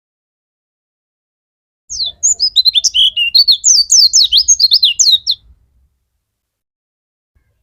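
A white-eye (pleci) sings a fast burst of high twittering song, starting about two seconds in and lasting about three and a half seconds. The notes are quick, sweeping up and down.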